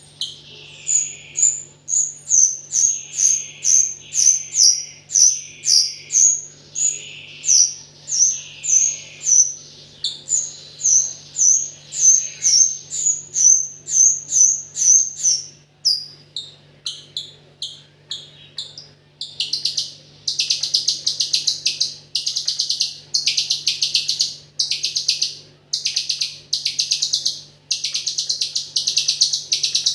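Rio-rio songbird singing continuously in the 'AK47' style. First comes a steady run of high, sharply falling whistled notes, about one or two a second. A little past halfway this gives way to fast, rattling chatter trills repeated in quick bursts. A faint steady low hum lies underneath.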